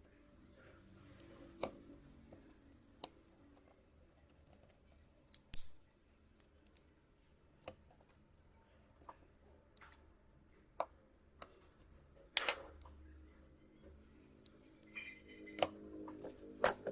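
Small hand tools clicking and scraping on phone parts: about a dozen sharp, irregularly spaced ticks, with a short scrape about five seconds in and a longer one about halfway through.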